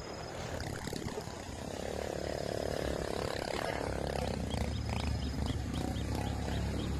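Kingfisher chicks calling: a drawn-out harsh rasping call around a couple of seconds in, then a run of short high chirps repeating a few times a second near the end, over a low rumble.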